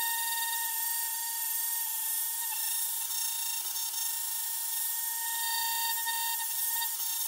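A small high-speed power tool running steadily, with a high whine over a constant hiss.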